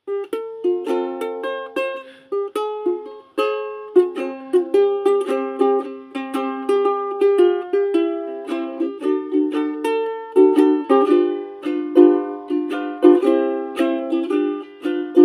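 Solo ukulele playing an instrumental introduction, a run of picked notes and chords, several a second, each ringing briefly and dying away.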